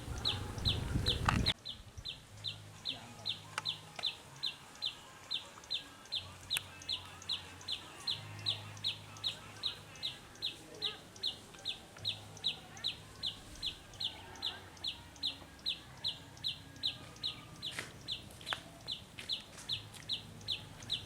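Wild prinia (perenjak) calling over and over, short notes sweeping down in pitch at about two and a half a second, kept up without a break. A loud rumbling noise covers the first second and a half, and a faint low hum comes and goes.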